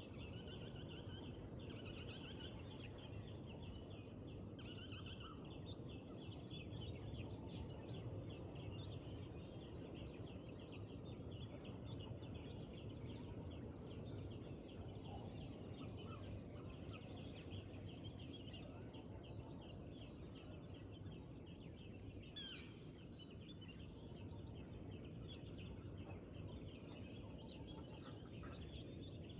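Forest dawn chorus: many small birds chirping and calling in quick short notes over a steady high tone and a low background hush, with one clear call sweeping downward in pitch about 22 seconds in.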